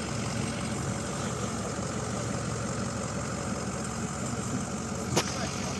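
Vehicle engine idling steadily, with one sharp knock about five seconds in.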